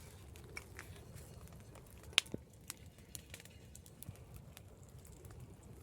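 Wood bonfire crackling, with scattered sharp snaps and pops, the loudest about two seconds in.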